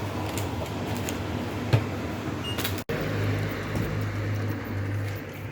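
A steady low mechanical hum, with one sharp click a little before halfway and a brief dropout a little after.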